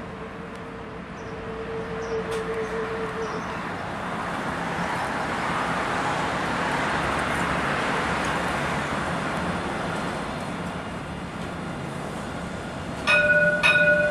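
Dubai Tram passing, its running noise swelling to a peak mid-way and easing off. Near the end its horn sounds in short blasts.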